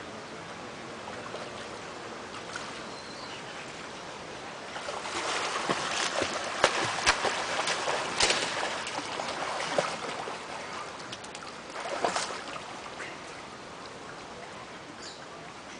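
Steady hiss of running water. It grows louder through the middle, with a cluster of sharp clicks and taps, then settles again after a brief loud patch.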